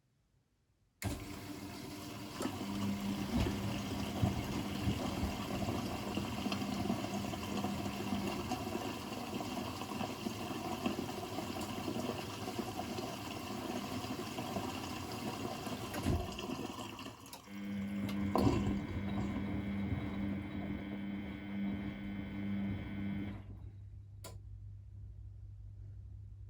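Miele Novotronic W921 washing machine taking in water: the fill starts suddenly about a second in as a steady rush of water with a hum, briefly dips and shifts about two-thirds of the way through, then cuts off near the end, leaving a fainter low hum.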